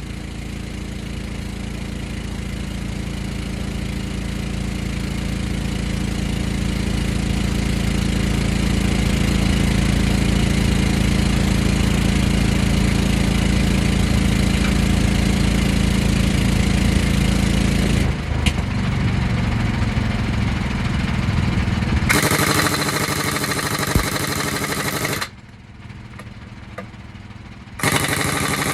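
A truck engine running steadily, growing louder over the first several seconds. Later a harsher, hissier mechanical noise takes over, drops out for a couple of seconds near the end, then comes back.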